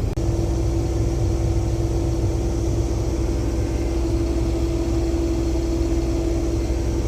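Combine harvester running steadily: a continuous low engine rumble with a held, even hum on top.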